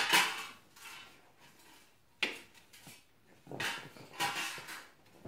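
Short clattering and scraping noises at a wood-burning fireplace, about five separate bursts with quiet between, as things are handled and set down.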